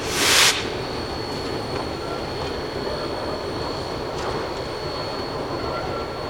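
Narrow-gauge log train rolling on the rails with a steady rumble and a thin, high, continuous squeal. A short, loud hiss comes right at the start.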